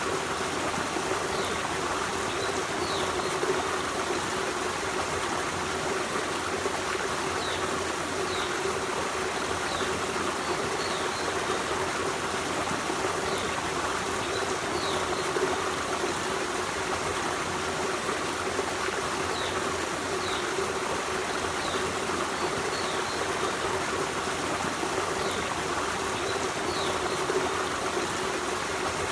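Forest stream running steadily over rocks, a constant rushing and trickling of water. Faint, short, high chirps come every second or two above the water.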